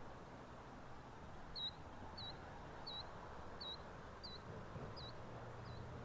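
A small bird calling a short, high note seven times, about every two-thirds of a second, over faint outdoor background noise.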